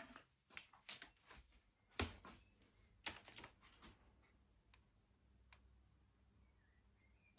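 Recoil starter parts and tools being handled on a workbench while a new pull cord is threaded in: a few short, sharp clicks and knocks in the first three and a half seconds, the loudest about two seconds in, then near quiet.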